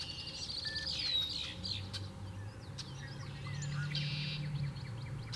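Wild marsh birds calling: a rapid run of high repeated notes at the start, a clear down-curving note about a second in, then scattered chirps and a short buzzy note near four seconds, over a faint low hum.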